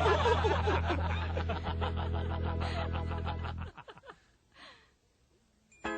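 Recorded character laughter from the animatronic show's soundtrack, a run of quick even 'ha-ha' pulses over a steady low hum, cutting off suddenly a little over halfway through. After a short near-quiet gap, band music starts just before the end.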